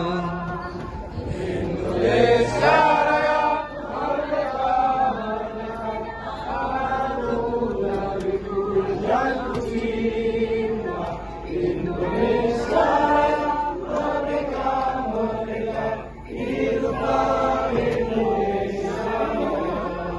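A group of voices chanting or singing together in long phrases, with short breaks between them, over a steady low hum.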